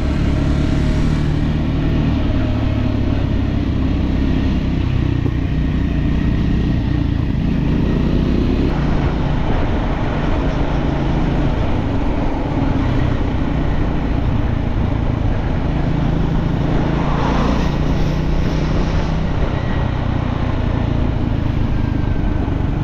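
Motorcycle engine running steadily at road speed with wind rushing past, heard from the bike while riding. A brief swell of noise comes about three quarters of the way through.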